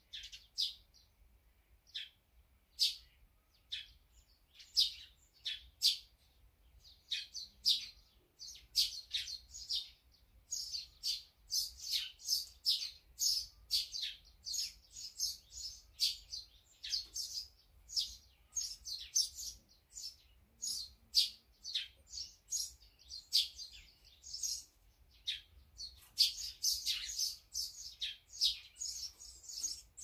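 Wild birds chirping: many short, sharp calls, scattered at first, then coming thick and overlapping from about a third of the way in, busiest near the end.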